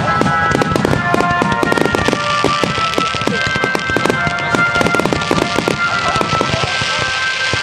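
Fireworks display finale: a dense barrage of aerial shell bursts, rapid overlapping bangs and crackling without a break, with steady high tones sounding over them.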